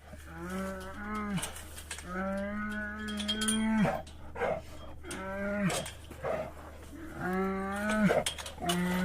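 An animal giving repeated drawn-out bawling calls, about six of them, each held at a steady pitch and dropping off at the end, the longest nearly two seconds. A steady low hum runs underneath.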